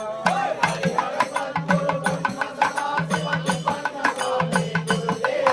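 Instrumental passage of a devotional bhajan: hand-drum percussion beats a quick, steady rhythm over a held melody line, between sung verses.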